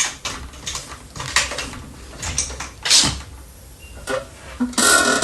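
A series of irregular clicks and knocks with creaking, ending in a louder scraping rustle near the end.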